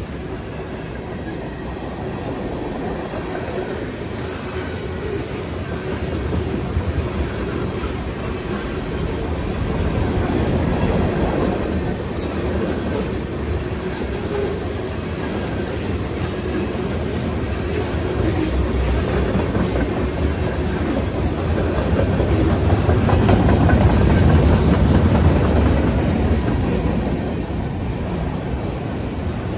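A train rolling past on the rails: a steady rumble of wheels on track that builds to its loudest about three-quarters of the way through, then eases slightly.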